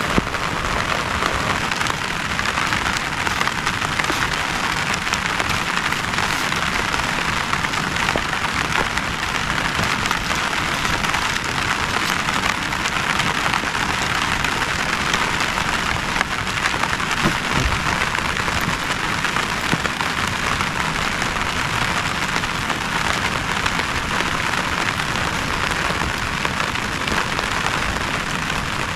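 Heavy rain falling steadily, a dense, even spatter of drops on a surface.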